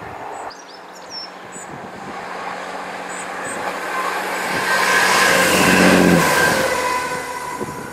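Diesel multiple-unit passenger train approaching and passing close beneath. Its engine hum and wheel noise build to a peak about five to six seconds in, and the engine note ends abruptly as it goes under. Faint birdsong about three seconds in.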